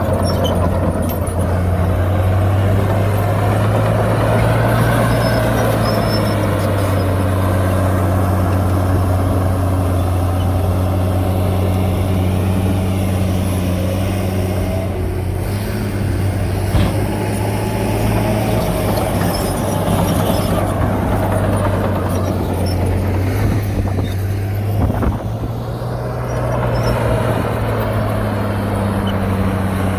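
Heavy diesel engine of earthmoving machinery running steadily under work, its pitch rising and easing a little at times, with a couple of brief knocks.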